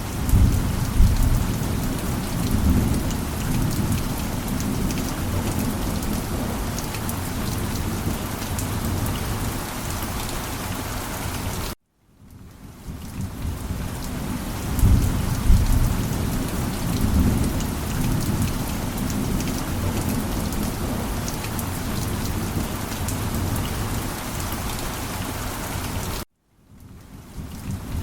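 Steady heavy rain with low rolling thunder rumbles, swelling about a second in and again halfway through. The sound cuts off abruptly twice into a brief silence and fades back in each time.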